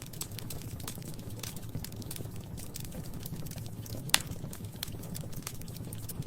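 Wood fire crackling in a fireplace: scattered irregular pops and snaps over a low steady rumble, with one sharp, much louder pop about four seconds in.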